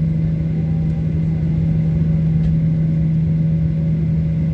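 Steady cabin drone of a Boeing 737-800 with its CFM56 engines running before takeoff: a constant low hum over a rumble, with no rise in pitch or level.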